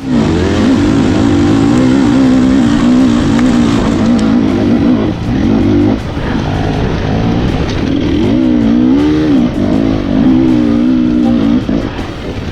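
Husqvarna enduro dirt bike engine revving up and down with the throttle, its pitch rising and falling repeatedly as the bike is ridden hard.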